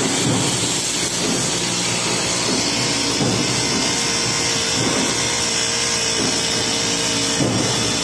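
Honda four-stroke brush cutter running steadily at high speed with a metal blade, the engine note holding even, with short swells of cutting noise every second or two as the blade swings through tall grass.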